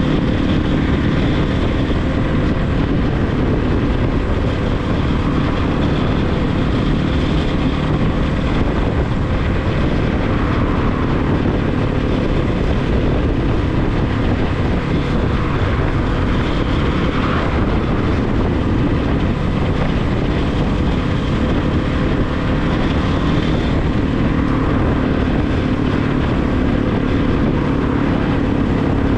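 Regulmoto TE enduro motorcycle engine running steadily under way, with wind rushing over the microphone.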